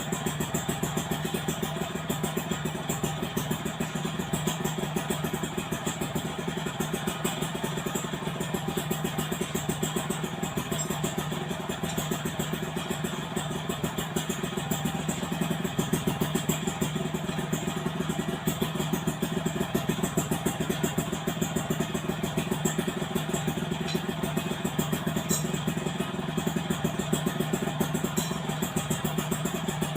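Yamaha F1ZR two-stroke motorcycle engine idling steadily through an aftermarket AHM Malaysia exhaust, with slight swells in level now and then.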